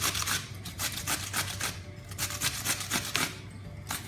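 Cucumber being grated on a coarse grater: quick rasping strokes, about four a second, with a short break about two seconds in and another near the end.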